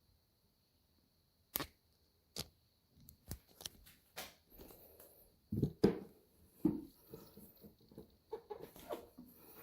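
Hard plastic toy parts being handled and clicked into place: scattered sharp clicks and knocks, coming thicker and louder about halfway through.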